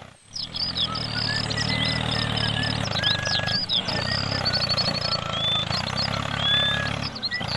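Low, steady engine sound of a miniature tractor pulling a loaded trolley, breaking off briefly near the start and about halfway. Birds chirp and trill over it throughout.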